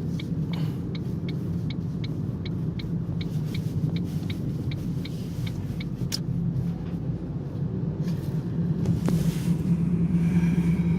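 Steady road and engine drone heard inside a moving car's cabin. A light, regular ticking, about four clicks a second, runs over it and stops about halfway through.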